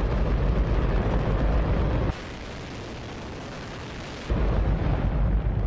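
Hydrogen-oxygen rocket engine firing: a loud, continuous roar with a deep rumble. From about two to four seconds in the rumble drops out and the roar thins to a hiss, then the full roar returns.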